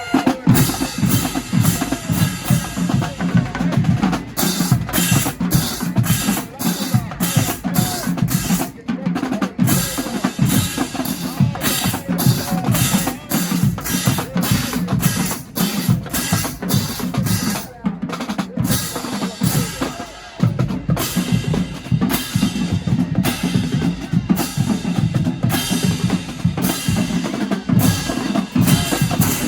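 Marching drumline playing a fast, dense cadence on snare and bass drums, with rimshots and rolls. The rhythm briefly drops out twice, about two-thirds of the way through.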